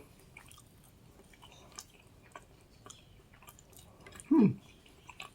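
Close-up chewing of food, with faint wet mouth clicks, in a mukbang. About four seconds in comes one short hummed "mm" that falls in pitch.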